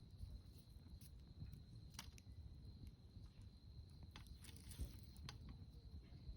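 Campfire crackling faintly, with a few sharp, sparse pops of burning wood over a low rumble.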